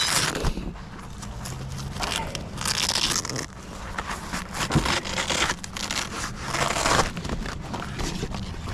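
Crackling, scraping and rustling in irregular bursts as the parts of a beehive are handled during an inspection.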